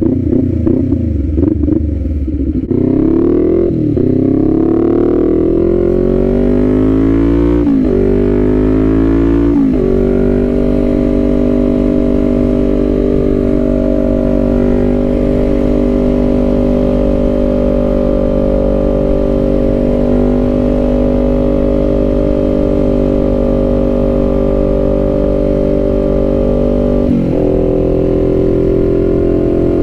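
2023 Kawasaki Z400's parallel-twin engine accelerating, its pitch rising and breaking at two quick upshifts, then running at steady cruising revs, with one more brief shift near the end.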